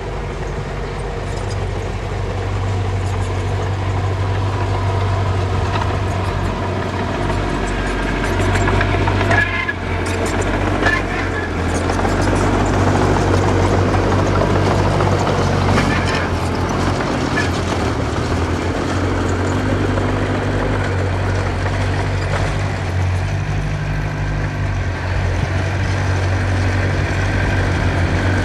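Diesel engine of earthmoving machinery running steadily, its pitch and load shifting now and then, with a few metallic clanks about a third of the way in and again about halfway.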